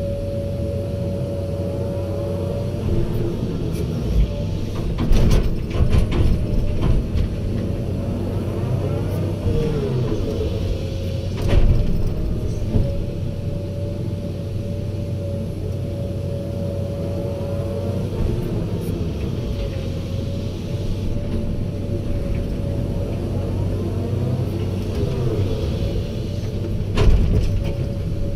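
Hydraulic excavator running steadily under load, its hydraulics whining and gliding in pitch as the boom and bucket move, with a few heavy knocks as the bucket works the load into a dump truck.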